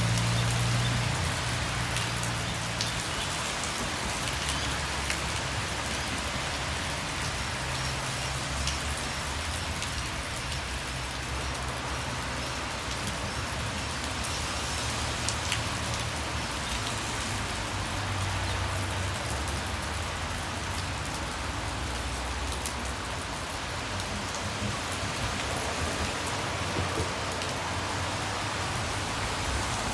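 Steady rain with a low rumble of road traffic underneath. A vehicle's rumble is loudest at the start and fades over the first couple of seconds.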